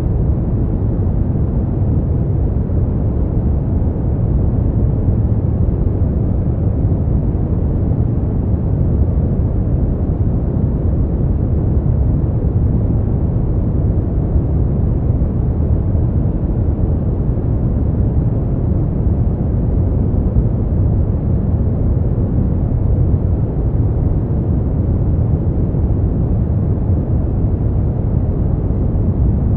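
Brown noise: a steady, deep rumbling hiss with no changes.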